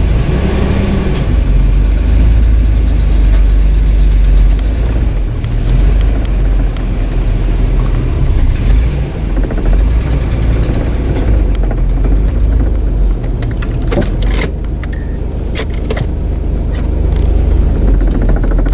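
1992 Ford Ranger pickup's engine running just after a cold start as the truck is backed out and driven, a steady low rumble heard from inside the cab. A few sharp clicks or knocks come in the last several seconds.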